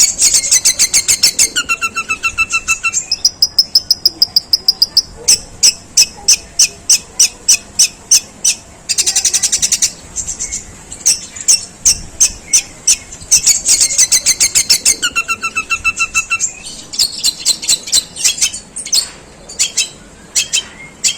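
Long-tailed shrike singing: rapid trains of sharp, dry, high notes at several per second, the harsh 'gereja' chatter, broken by a held high whistle, a buzzy two-tone note and a short harsh rasp.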